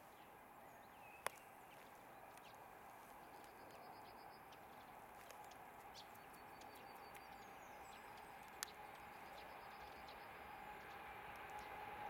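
Faint noise of a train approaching in the distance, slowly growing louder, with a few small bird chirps and two sharp clicks, one about a second in and one near the eight-second mark.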